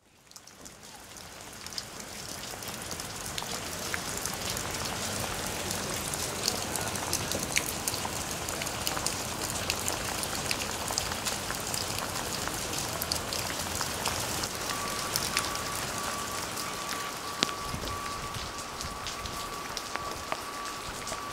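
Steady rain falling, with many small drops pattering on hard surfaces; it fades in over the first couple of seconds. About two-thirds of the way through, a thin high repeating beep joins it.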